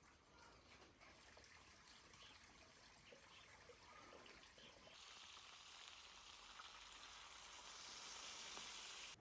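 Faint crackling, then about five seconds in a steady sizzling hiss starts suddenly, as of food cooking in a hot pan, growing louder until it cuts off abruptly.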